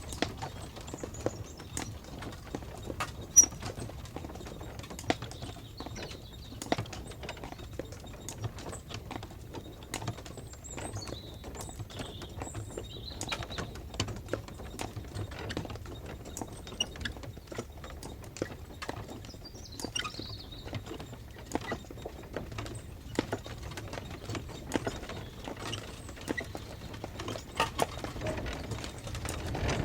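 Hooves of a four-horse team clip-clopping in an irregular stream as they pull the Norwich Union stagecoach, over the steady low rumble of its wheels.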